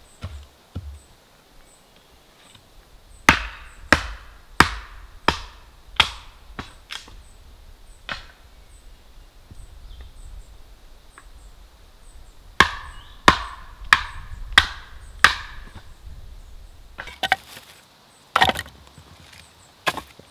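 Firewood being chopped and split into kindling: sharp wooden chopping knocks, about one and a half a second, in two runs of five or six strikes with a few more near the end.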